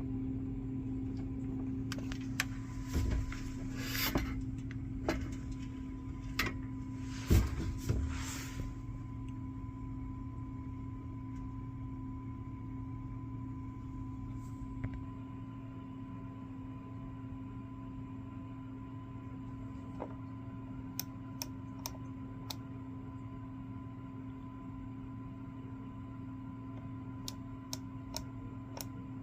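Nibe F750 heat pump running with a steady hum. A few seconds in there is a spell of knocks and rustling from handling, and light clicks come near the end.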